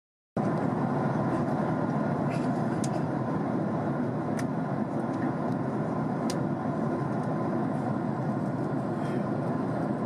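Steady engine and air noise inside the cabin of a Boeing 767-300 airliner, cutting in abruptly just after the start, with a few faint ticks.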